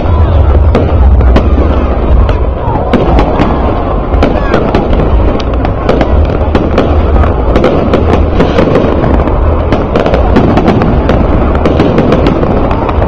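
Fireworks display bursting in rapid succession: a dense run of sharp pops and crackles over a continuous deep rumble.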